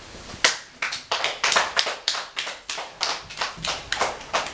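Scattered hand claps from a few children, sharp and irregular at about three to four claps a second.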